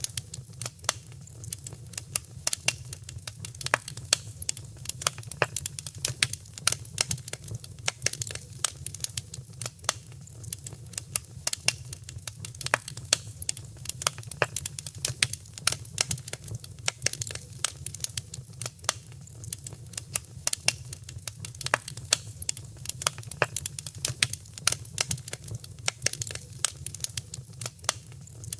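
Wood fire crackling in a fireplace: dense, irregular sharp pops and snaps many times a second over a steady low rumble of flames.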